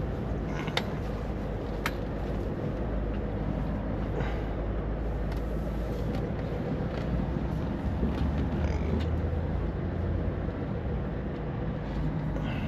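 Heavy truck's diesel engine idling with a steady low rumble, with a couple of sharp clicks in the first two seconds.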